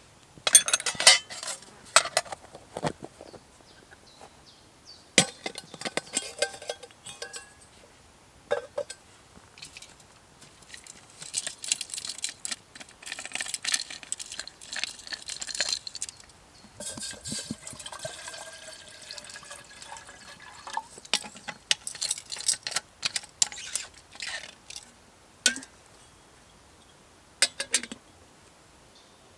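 Irregular bursts of clinks and clatters from hard objects being handled, some with a short ringing tone, separated by brief pauses.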